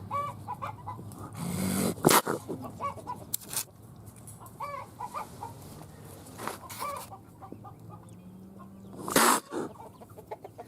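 Domestic chickens clucking in short repeated calls, in several bunches, with a couple of brief loud bursts of noise about two and nine seconds in.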